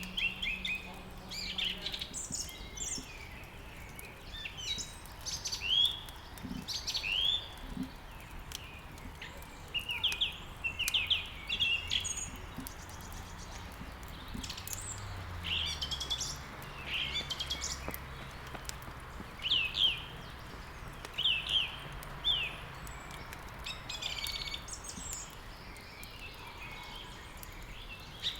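Songbirds chirping, with many short, quick, downward-sweeping notes coming in clusters, over a steady soft hiss.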